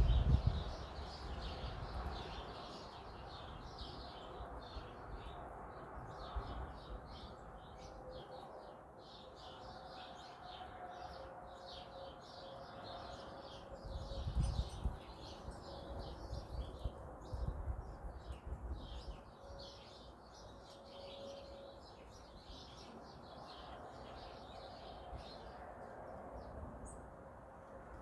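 A flock of small wild birds chirping, with many short overlapping chirps throughout. Low rumbles come at the start and twice more in the middle, under a faint steady hum.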